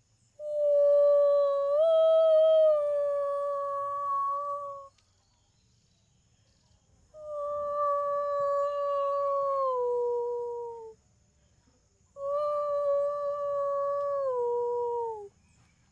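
A woman's voice holding three long wordless tones, each about four seconds, with pauses between; the pitch stays level and then slides down at the end of each tone.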